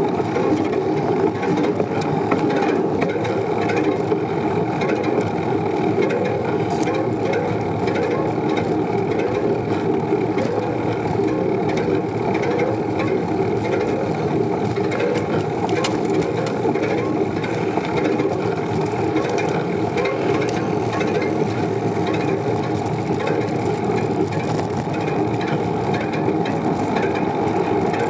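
Riding noise from a bicycle in motion: a steady rumble of road and wind, with continual light clicking and rattling from the bike.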